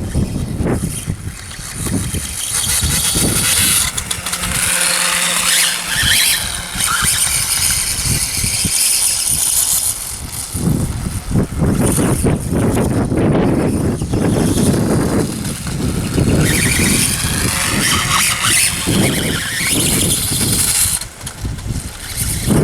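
Electric motor of a Reely RC dirt bike whining up and down in pitch as it speeds up and slows, over a rough noise of its tyres on the ground. The whine rises and falls most clearly twice, a few seconds in and again in the second half.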